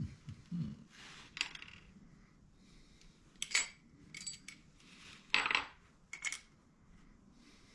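Small metal parts and hand tools clinking as they are handled and set down: a series of about seven separate, sharp clinks spread over several seconds.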